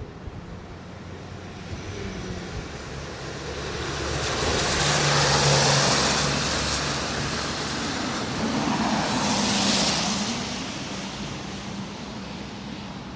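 Road traffic with two vehicles passing close by one after the other: each brings a swell of tyre hiss over a low engine hum, the first peaking around the middle and the second a few seconds later, then fading back to steady traffic noise.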